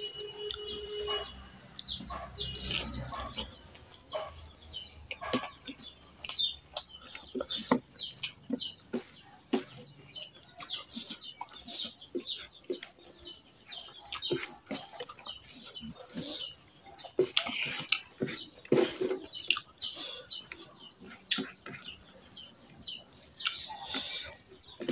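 Close-miked eating by hand: many short wet clicks of chewing and lip smacking, mixed with fingers squishing rice and curry on the plate.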